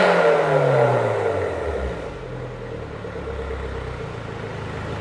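MINI Countryman Cooper S turbocharged four-cylinder, heard through a JCW muffler with Akrapovic carbon tips, falling from a rev back to idle over about two seconds, then idling steadily and more quietly.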